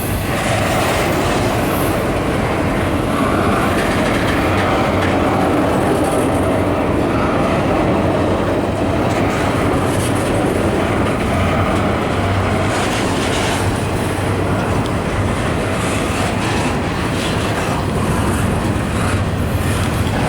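Norfolk Southern freight train rolling past on steel rail, a loud, steady rumble of cars and wheels with a low hum under it.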